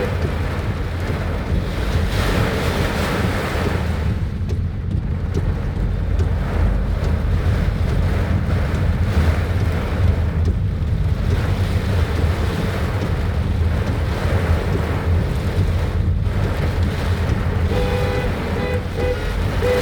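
Strong wind buffeting the microphone as a heavy low rumble, over the steady hiss of heavy rain. Near the end a pitched tone sounds in a few short pulses.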